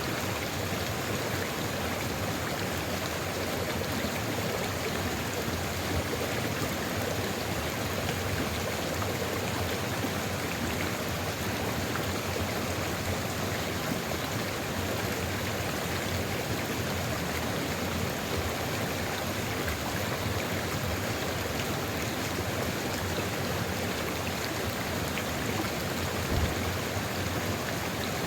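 Steady rushing of a stream flowing over rocks, a dense even wash of water noise. A brief low thump comes about 26 seconds in.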